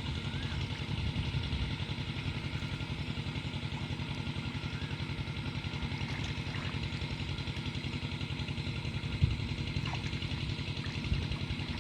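A small engine running steadily with a rapid, even putter, and a single sharp knock about nine seconds in.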